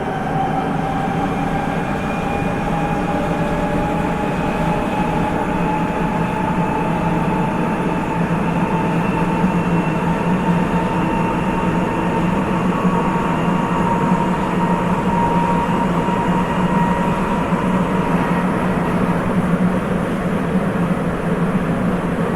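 Sapporo Municipal Subway 8000 series train running between stations, heard inside the car. The Hitachi IGBT inverter and traction-motor whine rises slowly in pitch over steady rubber-tyred rolling noise as the train gains speed.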